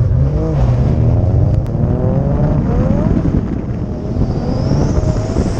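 Car engine pulling hard from a standing start on a drag run, heard from inside the car: the revs climb, drop back about three seconds in at a gear change, and climb again.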